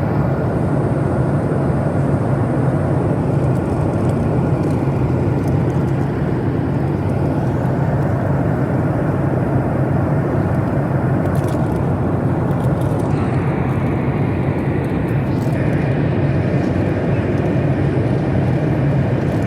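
Steady drone of a Boeing 737 MAX 8's CFM LEAP-1B engines and rushing air, heard from inside the passenger cabin.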